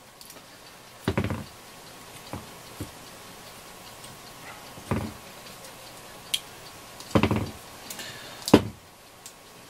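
A handful of sharp knocks and clicks from a battery pack and parts being handled and set down on a workbench. A double knock comes about a second in, a loud cluster about seven seconds in, and the sharpest knock near the end.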